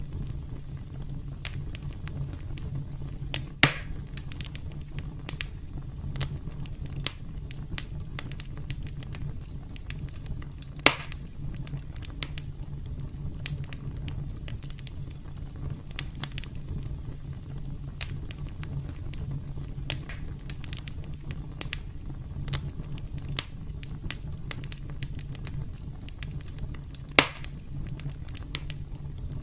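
Campfire crackling: frequent small pops and clicks over a steady low rumble, with three louder snaps spread through, the loudest near the end.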